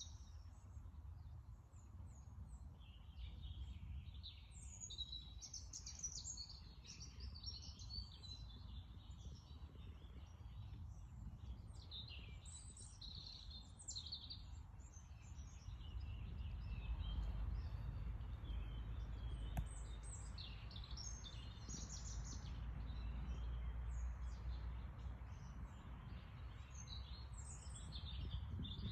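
Several small songbirds chirping and singing in quick, overlapping phrases, over a low steady rumble that grows louder about halfway through.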